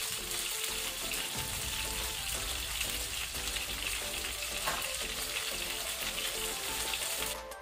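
Chicken wings shallow-frying in hot oil in a non-stick pan, sizzling steadily. The sizzle cuts off abruptly just before the end.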